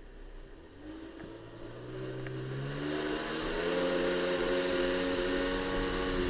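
Jet ski engine speeding up: its pitch and loudness rise over the first few seconds, then it holds a steady drone.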